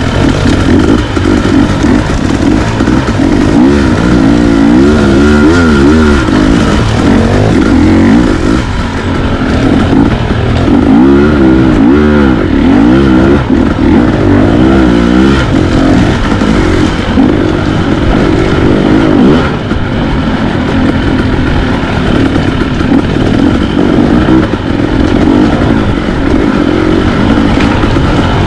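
Dirt bike engine being ridden, its revs rising and falling over and over as the throttle is worked, loud throughout.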